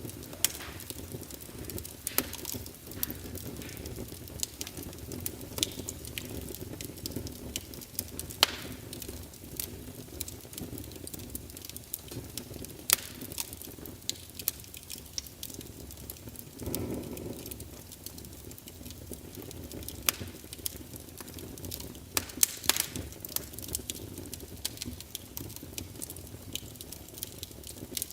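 Wood fire of burning logs in a fireplace, crackling with irregular sharp pops and snaps over a steady low rumble of the flames, with a brief soft low swell about two-thirds of the way through.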